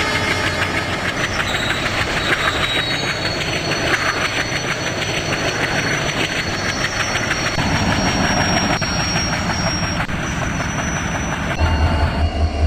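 Train running along the rails with a dense clatter of wheels and a steady, high-pitched wheel squeal. Near the end a low, evenly pulsing throb comes in.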